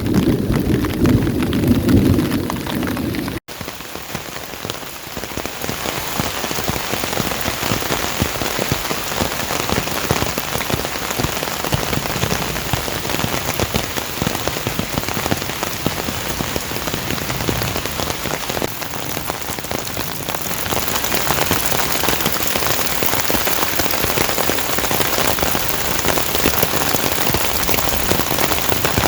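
Heavy rain falling steadily, with a low rumble of thunder at the start that cuts off abruptly about three seconds in; the rain grows louder near the end.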